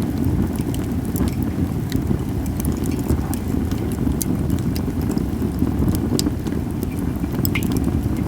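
Japanese cedar firewood burning in a campfire, crackling with frequent sharp, irregular pops over a steady low rumble.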